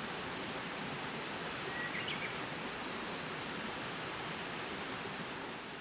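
Steady outdoor ambient noise in the forest, an even hiss with no single dominant source, with one short bird chirp about two seconds in.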